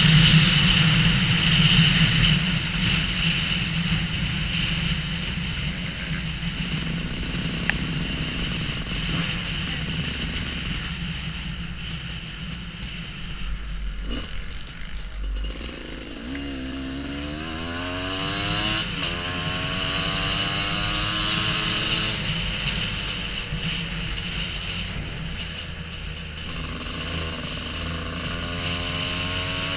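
Off-road motorcycle engine running under way, fading somewhat over the first half. From about halfway through it revs up and down repeatedly, the pitch rising and falling.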